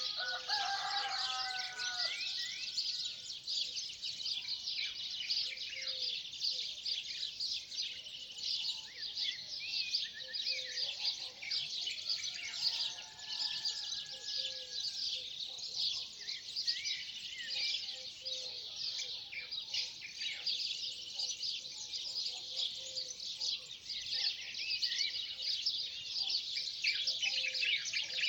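A dense chorus of many birds chirping and trilling all at once, with a few lower whistled phrases mixed in.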